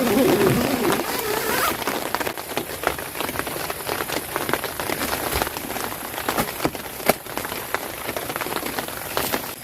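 Rain falling on a tent, many separate drops tapping on the fabric over a steady hiss. A wavering, pitched sound fades out in the first two seconds.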